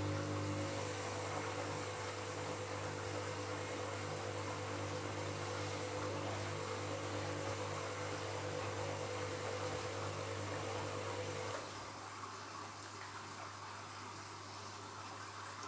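Washing machine running on a bed linen wash, with water rushing in over a steady electrical hum. The hum cuts off suddenly about eleven and a half seconds in, and the water noise carries on.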